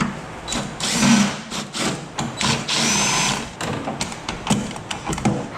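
Handheld power tool run in several short bursts, the longest about three seconds in, with clicks and knocks of metal parts between them.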